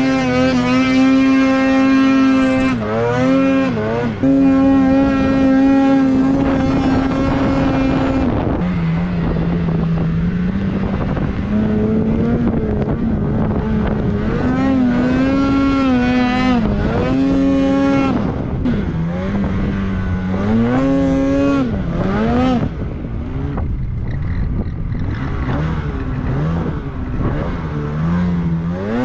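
Snowmobile engine under throttle while riding: held at high revs for the first several seconds, then dropping and swelling again and again as the throttle is worked.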